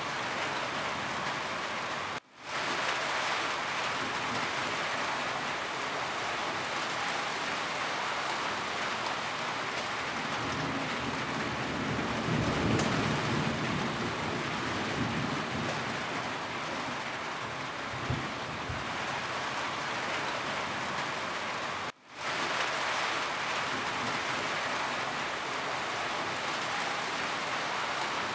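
Steady rain falling on a roof, an even hiss of drops, with a low rumble of thunder swelling near the middle. The sound cuts out twice for a moment and fades back in.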